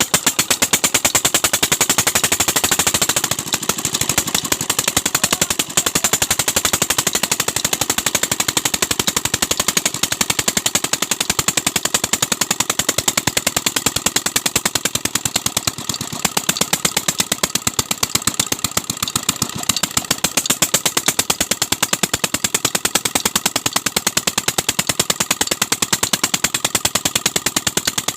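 Diesel tubewell engine running steadily after starting, a loud, even, rapid chugging of firing strokes as it drives the water pump.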